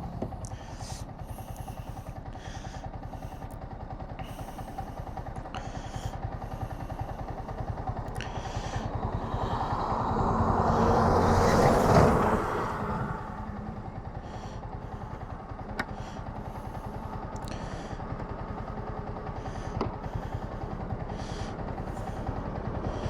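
Motorcycle engine idling steadily, with another vehicle passing close by, swelling to a peak about twelve seconds in and then fading. Scattered light clicks and knocks come from handling.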